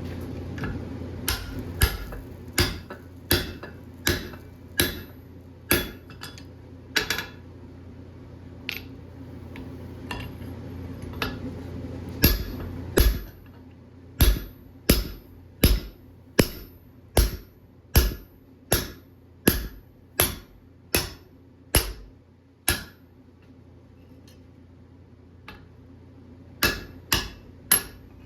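Blacksmith's hammer striking a hot steel bar on an anvil in a steady rhythm of sharp, ringing blows, a little over one a second, in runs with short pauses between. A steady low hum underneath stops about halfway through.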